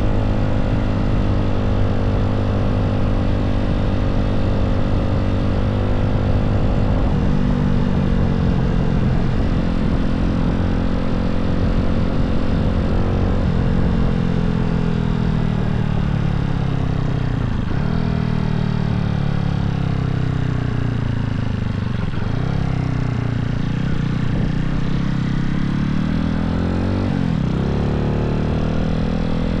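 Honda Z50 single-cylinder four-stroke engine with a 108cc stroker crank, running after a cold start. Its speed holds steady, then drops off gradually from about seven seconds in, with a few brief sags that pick back up.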